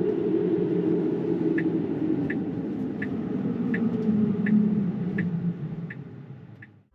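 Car turn-signal indicator ticking steadily, a little faster than once a second, starting about a second and a half in, over tyre and road rumble inside a Tesla Model 3's cabin. The rumble fades out near the end.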